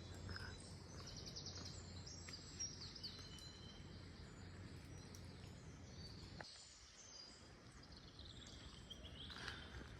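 Faint birdsong from several small birds: short rapid trills and thin high whistles over a low steady background.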